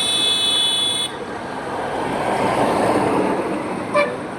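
Highway traffic with a vehicle passing, its noise swelling and easing in the middle. A high-pitched horn sounds for about a second at the start, and a short horn toot comes near the end.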